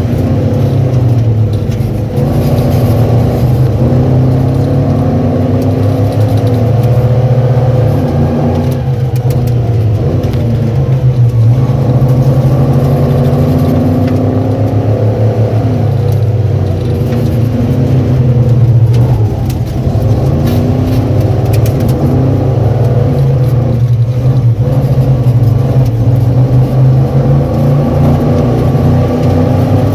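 Ford Bronco's engine running hard on a rallycross run, revving up and falling back again and again as the driver accelerates and lifts.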